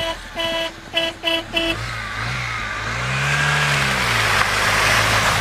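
A vehicle horn honks five short times in quick succession. The off-road 4x4's engine then revs up and back down, under a growing rushing noise.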